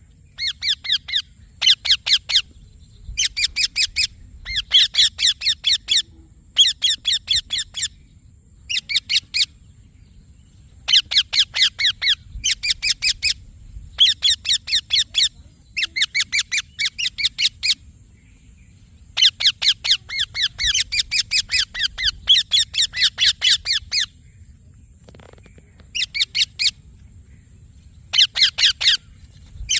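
Indian ringneck parakeet calling in repeated bursts of rapid, shrill chattering notes, each run lasting about a second, with short pauses between.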